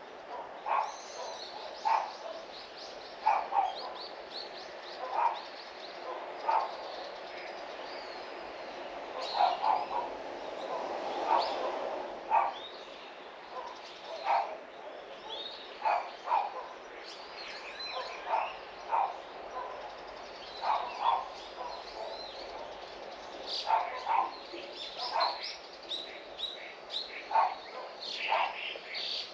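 A dog barking in short calls, often two or three close together, repeated every second or two, with small birds chirping high and thin between the barks.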